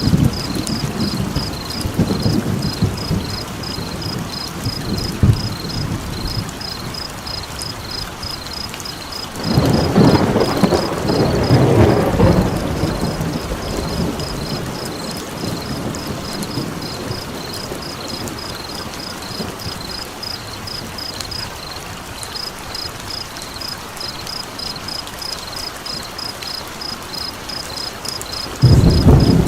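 Layered sleep soundscape: a steady hiss and crackle of fire and rain under low thunder rumbles that swell about a third of the way in and again at the very end. Throughout, a high, regular chirping, about three or four pulses a second, which the title gives as a frog.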